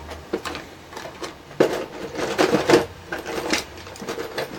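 Small hand file rasping in short strokes across the metal pins of a laptop DC power jack, roughening the leads so solder will stick to them.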